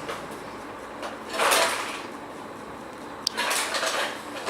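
Small plastic items sliding and rattling as a toy garbage truck tips its load out into a box, in two bursts, the second starting with a sharp click.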